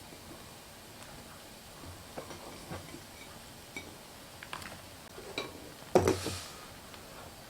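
Scattered light clicks and taps of kitchen handling, with a louder clatter about six seconds in.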